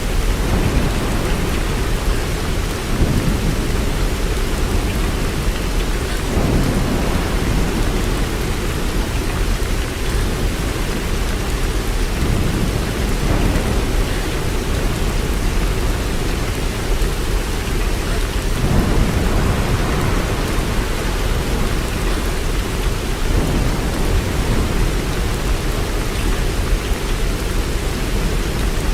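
Steady rain falling, with deep low rumbles swelling up every few seconds beneath it.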